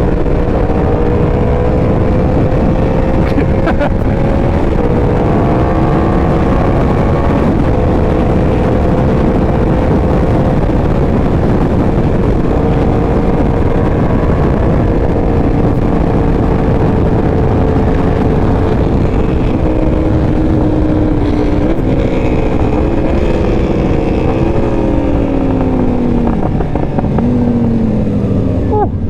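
Inline-four engine of a 2018 Yamaha R1 fitted with a Competition Werkes exhaust, running under way at fairly steady revs. The engine note falls in pitch a few seconds before the end.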